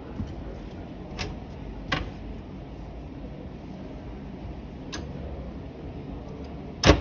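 Display washing machines being handled: a few sharp clicks of doors and controls over a steady low shop hum, then one loud knock near the end.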